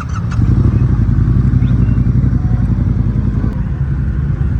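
Drag-racing motorcycle engine running loud and hard. The sound jumps up about half a second in and eases a little near the end.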